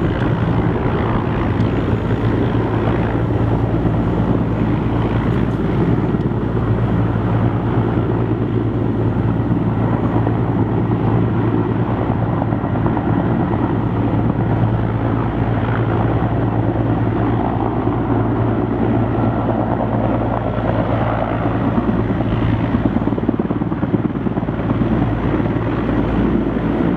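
Sikorsky S-64F Skycrane heavy-lift helicopter running steadily, its rotor and turbine engines giving a loud, unbroken drone.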